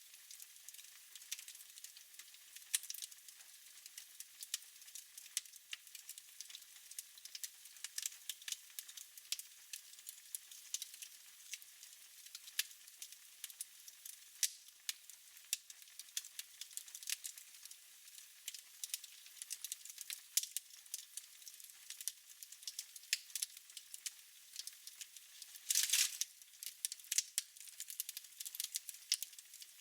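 Wood fire burning in a fireplace, crackling with many small irregular pops over a steady hiss, and one louder pop near the end.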